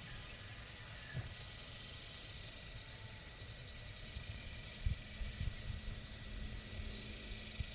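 Insects chirring: a high, finely pulsing trill that swells in the middle and fades. Under it are irregular low rumbles and thumps on the microphone, the sharpest a little before the end.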